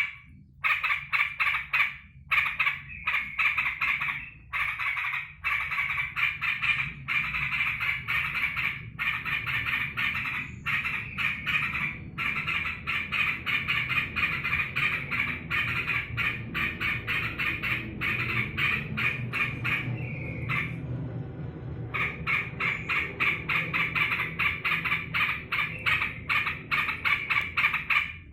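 Sooty-headed bulbul (trucukan) calling in long runs of rapid chattering notes, with one pause of about a second and a half a little past two-thirds of the way. The owner takes the outburst as the bird's excitement at his return home.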